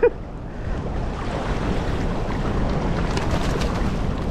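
Steady wind rumbling on the microphone over moving water, with a few faint light clicks in the last second or so.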